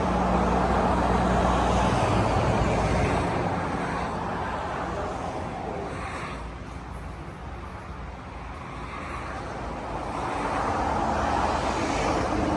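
BMW 535i running with a straight-piped exhaust from the cat back: a steady low drone for the first few seconds, fading away through the middle and building again near the end.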